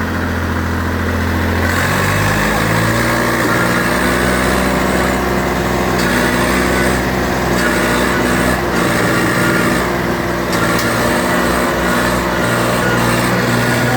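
Old Swaraj 855 tractor's diesel engine revving up over the first two seconds or so, then running steadily at high revs as it pulls the trolley out.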